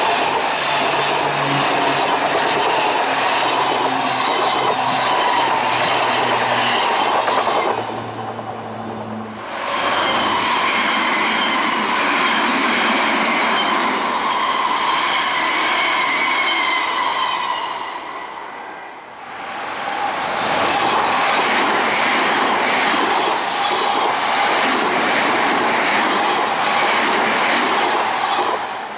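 Three Odakyu electric commuter trains (4000, 8000 and 3000 series) passing close at speed, one after another, with a short drop in level between them. Their wheels clack rhythmically over rail joints; a low hum runs under the first pass and a high steady whine under the second.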